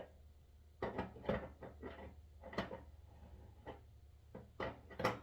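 A handful of short, sharp knocks and clunks spaced irregularly over a few seconds, with a steady low hum beneath.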